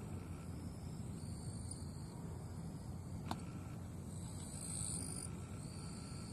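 Summer grassland ambience: a steady low rumble under insects buzzing high in stretches of about a second each, strongest about four to five seconds in. A single sharp click a little past three seconds in.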